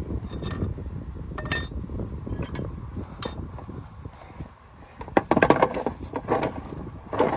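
Steel wrenches clinking and ringing against each other and the drain bolt as the bolt is worked loose, with a quick run of clicks a little after halfway.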